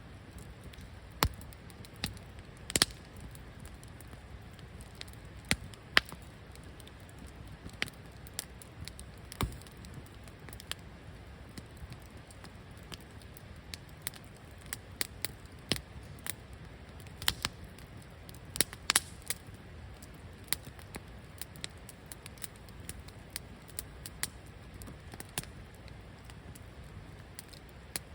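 Campfire of burning wood crackling, with irregular sharp pops over a low steady rumble.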